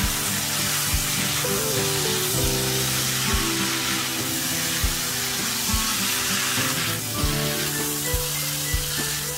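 Pork belly, green beans and bell pepper sizzling in a bubbling sauce in a hot wok as they are stirred with a spatula, a steady frying hiss. Background music plays underneath.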